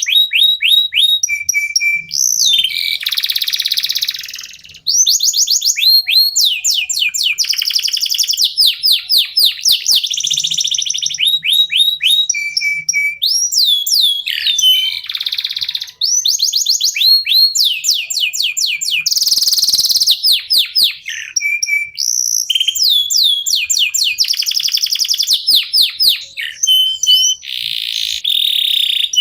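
Local-bred domestic canary singing a long, continuous song. It goes in runs of rapid, evenly repeated falling notes, broken by buzzy rolls and brief pauses.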